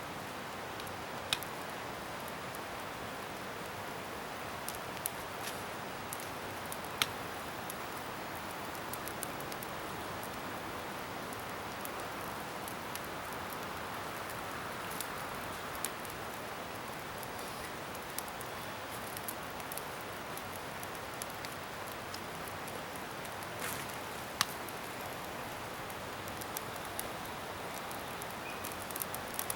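Bonfire of scrap wood burning with a steady hiss, and scattered sharp pops and crackles, the loudest about a second in, about seven seconds in and near twenty-four seconds.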